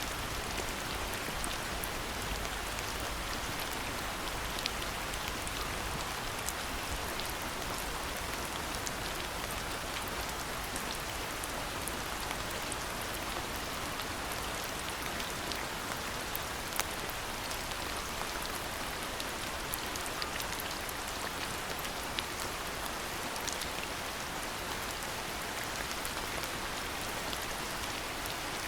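Steady rainfall: an even hiss of rain with many individual drops ticking and pattering close by.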